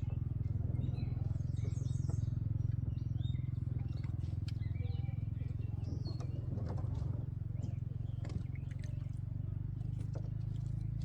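A small boat motor running steadily with a low, rapidly pulsing rumble. Birds chirp faintly over it.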